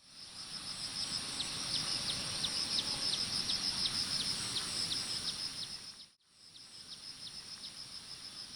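Rural outdoor ambience: a steady high insect drone, a regular chirp repeating about three times a second, and a low background rumble. The sound dips out about six seconds in and comes back quieter.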